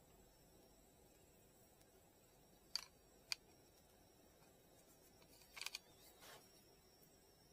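Near silence, broken by a few short, sharp clicks: two about three seconds in and a small cluster about two seconds later.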